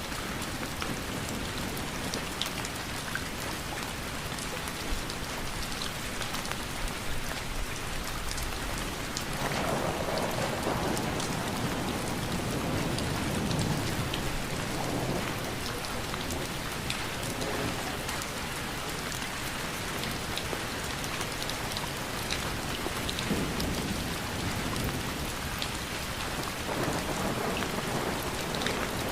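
Steady rain, with many separate drop hits ticking through it. About ten seconds in, a low rumble of thunder swells and then fades over roughly ten seconds.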